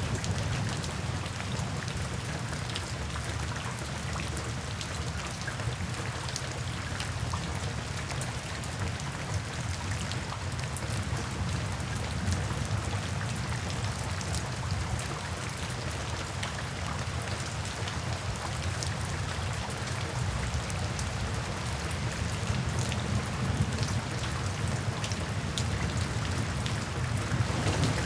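Steady rain, with many individual drops ticking on a surface over a continuous hiss and a low rumble underneath that grows louder near the end.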